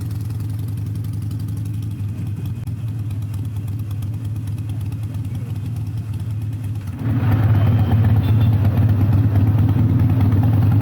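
Harley-Davidson Iron 883's air-cooled V-twin, fitted with Rinehart slip-on exhausts, running steadily at a low, even engine speed, then becoming suddenly louder and fuller about seven seconds in and holding there.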